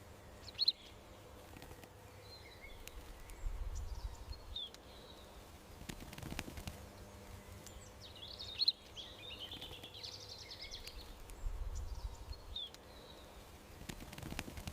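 Small garden birds chirping in short high calls scattered throughout, with a denser stretch of twittering song in the middle. Twice a brief low rumble sits under the birdsong.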